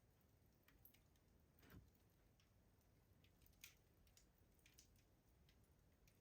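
Wood fire crackling in a rustic stove: faint, sparse pops and snaps over a low hush, the sharpest about a second and a half in and at about three and a half seconds.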